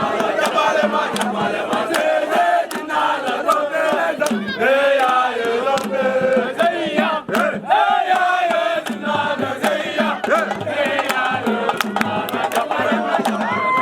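A crowd of many voices singing and chanting together, with sharp percussive beats throughout.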